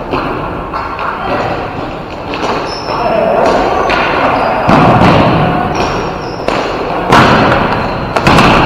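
Ball hockey play: several sharp thumps and cracks of sticks, ball and bodies against the boards, with players shouting.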